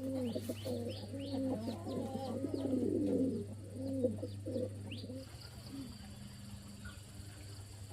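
Birds calling: a run of low, bending cooing calls over the first five seconds, with thin high chirps among them. A steady low hum runs underneath.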